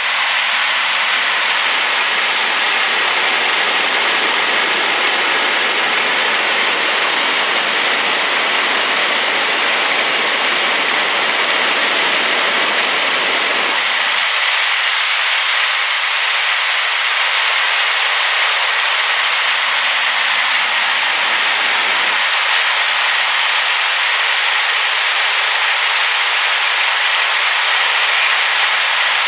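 A waterfall in heavy flow after rain, a loud, steady rush of falling water with no break.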